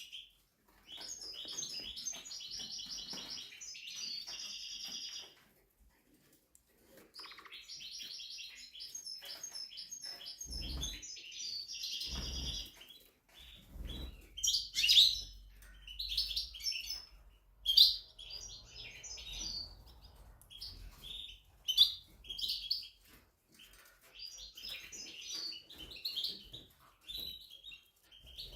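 Spanish Timbrado canary singing: two long, fast rolling trills, then a more broken run of sharper notes with several loud ones. Two brief low thumps come in the middle.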